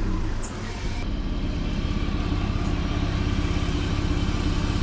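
BMW E34 525i's M50 2.5-litre inline-six idling steadily just after a start. The owner suspects a fuel delivery problem, with low fuel pressure at the rail.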